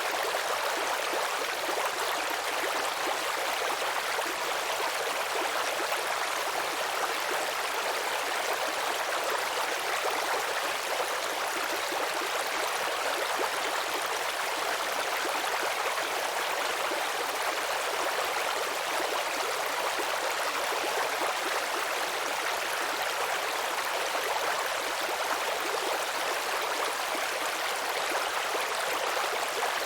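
Babbling brook: shallow water trickling and splashing over stones in a steady, unbroken rush.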